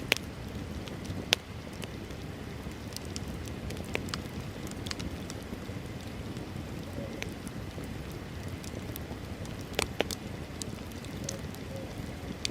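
Wood bonfire burning with a steady low rush and scattered sharp crackles and pops. The loudest pops come about a second and a half in and near ten seconds in.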